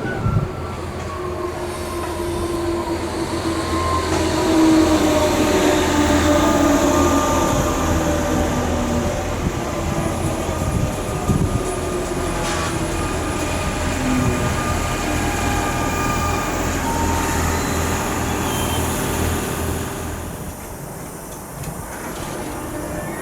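Electric train running through the station at close range, with a low hum, rail noise and wheel squeal. Several whining tones slide slowly down in pitch over the first half, and the sound eases off near the end.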